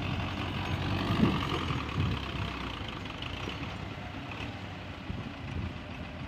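Tractor diesel engine running steadily, with a couple of louder thumps about one and two seconds in, fading a little toward the end.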